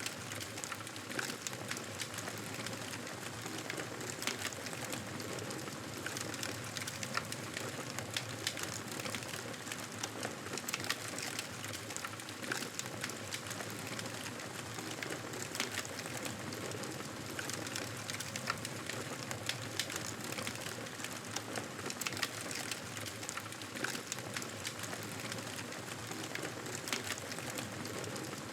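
Fireplace fire crackling: irregular small pops and snaps over a steady hiss.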